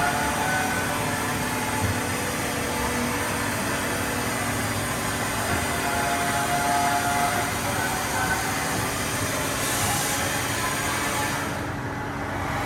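Steady machinery noise: an even hiss with several steady humming tones running through it, the hiss dropping away near the end.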